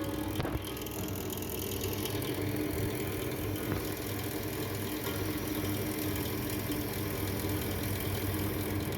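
A deep freezer's refrigeration compressor runs with a steady hum while refrigerant gas is charged into the system.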